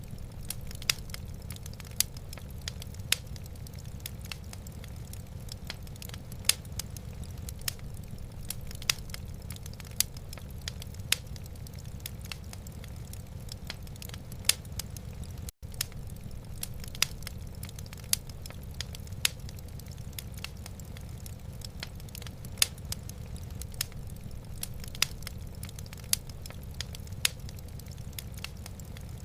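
Wood fire in a fireplace, crackling with irregular sharp pops over a steady low rumble. The sound cuts out for a split second about halfway through.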